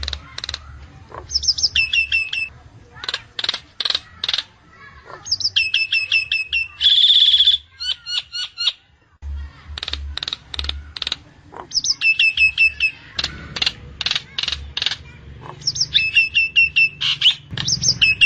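Nias hill myna calling: quick runs of sharp clicking notes, several series of falling whistles, and one long, loud held whistle about seven seconds in.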